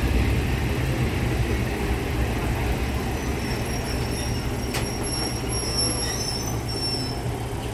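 Diesel railcar running on the track, heard from inside the carriage: a steady low rumble. From about three seconds in to near the end there is a thin, high-pitched wheel squeal, with a single sharp click about halfway through.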